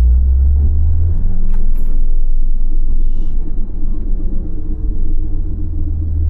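Low, droning rumble of a car's drivetrain and tyres heard from inside the cabin while driving, with faint tones sliding slowly down in pitch as the car slows and a light click about one and a half seconds in. This is the chassis noise suspected to be a worn rear wheel bearing or centre driveshaft bearing, heard as the car decelerates.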